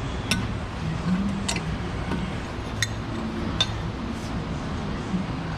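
Metal tools and bolts clinking sharply against the suspension parts, four separate clinks over a few seconds, over a steady low hum.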